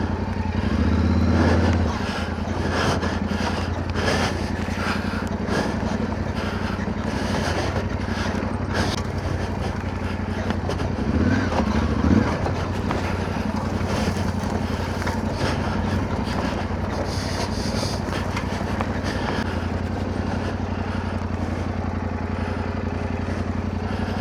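Motorcycle engine running steadily at low speed on a rough track, with a brief burst of throttle about a second in and again about halfway through. Scattered knocks and clatter sound throughout.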